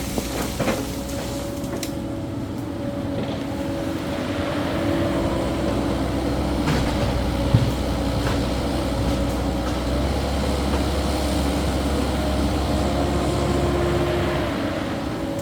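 Caterpillar 308E2 mini excavator's diesel engine running steadily as it works dirt, growing louder from about four seconds in and easing back near the end, with a single sharp knock about halfway through.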